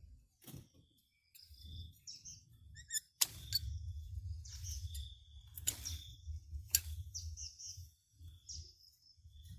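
Small birds chirping in short repeated notes, with four sharp clicks and a low rumble that starts about a second and a half in and stops near the end.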